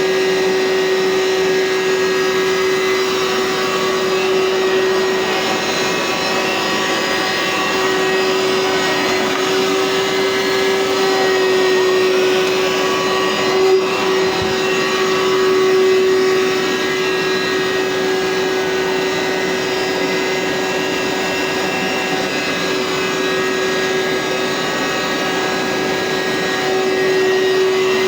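Hoover SteamVac carpet cleaner running steadily, its motor giving a constant whine over a rush of suction. There is a single short knock about 14 seconds in.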